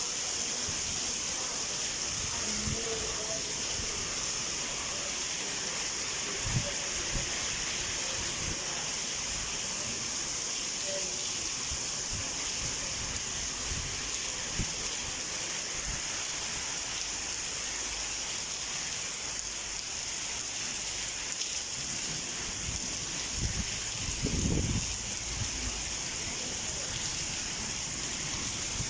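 Heavy rain falling steadily, a constant hiss. A brief low thump comes about six seconds in, and a longer low rumble comes near the end.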